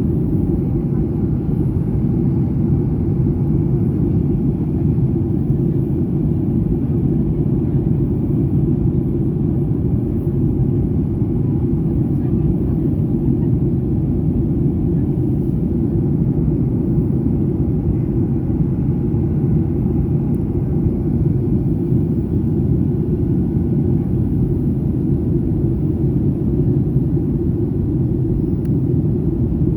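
Steady cabin drone of a Boeing 737-800 in flight, the CFM56-7B turbofans and rushing air heard from inside the cabin as an even, deep rumble that does not change.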